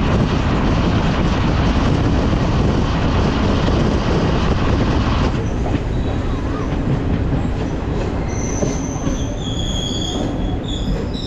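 Express passenger train running at speed, heard from on board: a loud, dense rush of wheel and rail noise that eases a little about five seconds in. High wheel squeals come in over the last few seconds.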